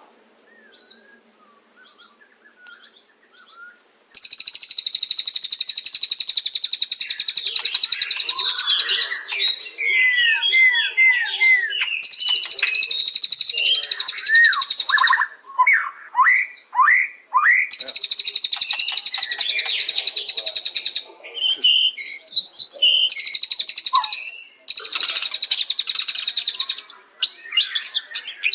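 White-rumped shama singing. After a few quiet seconds with faint chirps, its song alternates long harsh buzzing trills, each lasting a few seconds, with runs of quick down-slurred whistles.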